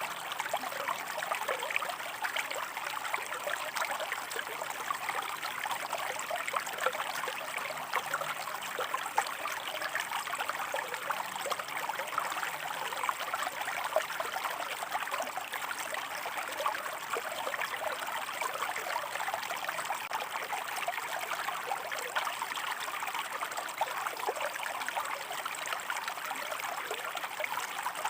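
Shallow stream of water running over rocks, a steady babbling trickle with many small splashes.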